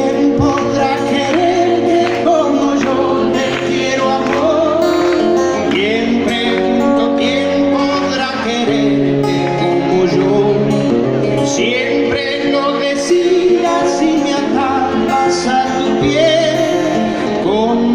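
Live band music with a male voice singing over the accompaniment.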